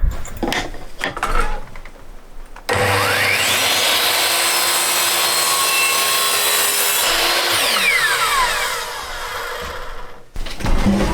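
A few knocks, then a small electric motor starts abruptly, whines up to speed, runs steadily for about five seconds, and winds down with a falling whine.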